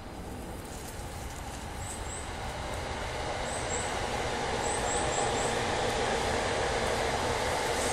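A train running past, its steady rumble growing gradually louder.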